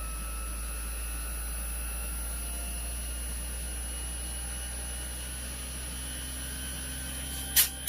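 Gree 1-ton DC inverter air-conditioner compressor running under its repaired control board, a steady hum with a faint whine rising slowly in pitch as the compressor RPM ramps up, the ramp the board had failed to give before repair. A sharp click near the end.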